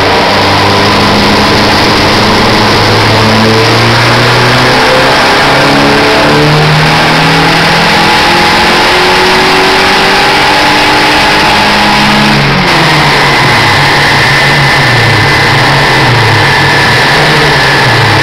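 Volkswagen Voyage engine on a dynamometer pulling under load, its revs climbing steadily for about twelve seconds. About twelve seconds in the pull ends and the revs fall back, while a steady high whine carries on.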